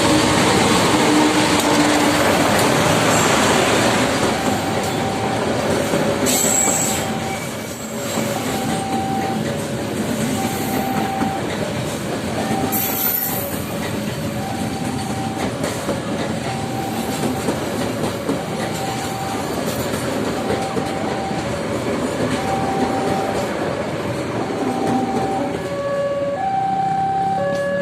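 A train passing close by on the tracks, with a steady rumble and wheel noise that is loudest in the first few seconds. Under it, a two-note signal repeats evenly, a lower note and a higher one alternating.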